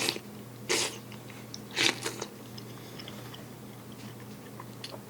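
A man eating tenshinhan: chewing and mouth noises with a few short bursts in the first two seconds, then quieter with faint small clicks, over a steady low hum.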